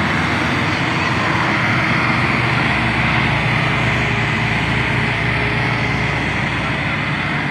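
Diesel engine of a heavy construction vehicle running steadily under load, with a dense rumble and hiss.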